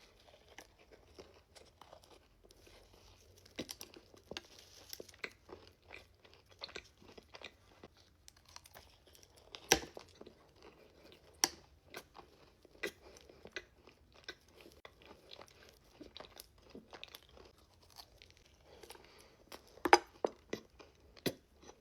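Close-up mouth sounds of a thick cookie topped with chocolate and M&Ms being bitten and chewed: scattered soft crunches and clicks, the sharpest about ten seconds in and again near the end.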